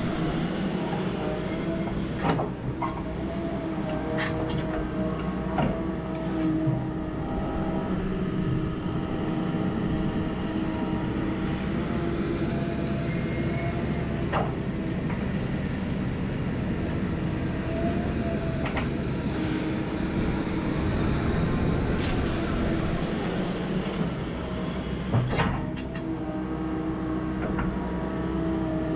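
Diesel engine of tracked heavy equipment running steadily with a held whine, while several sharp metallic clanks ring out at intervals.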